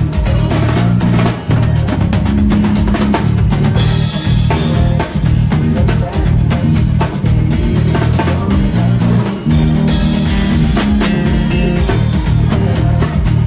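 Live band playing a groove with a full drum kit (kick, snare and rimshots) over a heavy bass line, heard loud and steady.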